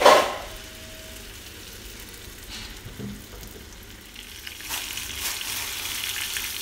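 Ground shallot, garlic and candlenut spice paste hitting hot cooking oil in a nonstick frying pan: a loud sizzle at the moment it lands that quickly dies down to a low hiss. The sizzling picks up again near the end as a silicone spatula stirs the paste through the oil.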